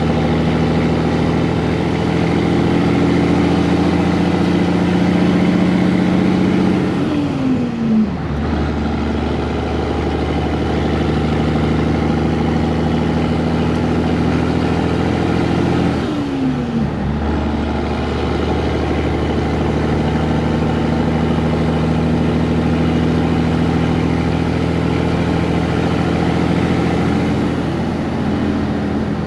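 Peterbilt 362 cabover's diesel engine running under way, a steady drone. Its pitch drops sharply twice, about seven and sixteen seconds in, as the revs fall through gear changes.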